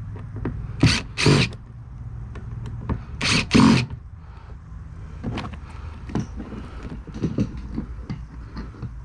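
Hand work on a boat fuel tank's fittings: four harsh scrapes in two pairs, about a second and three and a half seconds in, then scattered light clicks and knocks, over a steady low hum.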